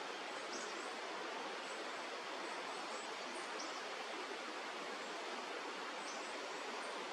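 Steady rushing of a stream or river, with faint short high chirps several times over it.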